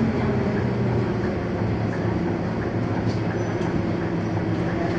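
Scania K230UB city bus's five-cylinder diesel engine running at a steady note while the bus is under way, with road and cabin rumble.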